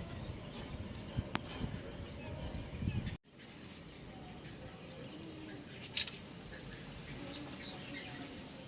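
Steady high-pitched chirring of crickets or other insects, with a short, sharp bird call about six seconds in. Rough low rumble, likely wind or handling, underlies the first three seconds.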